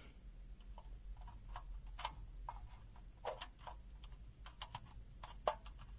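Faint, irregular plastic clicks and taps from the multimeter and its test probe being handled and moved around a mains outlet; the meter's NCV beeper stays silent.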